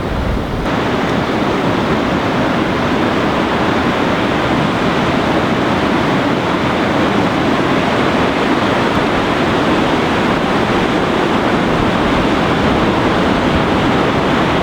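Steady rushing noise of sea surf and wind on the coast, even and unbroken, growing fuller about a second in.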